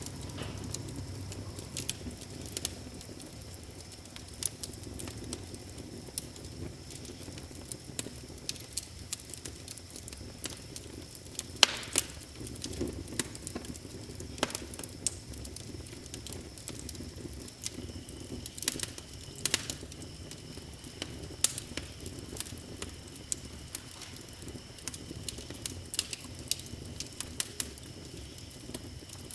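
Wood fire burning in a fireplace, with irregular crackles and pops over a low steady rumble; a few louder snaps, the loudest about 12 s in and twice around 19 to 20 s in.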